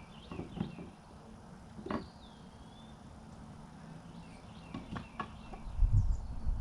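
Birds chirping and whistling, with a few sharp knocks and a steady low hum underneath. Near the end, loud low rumbling thumps come in.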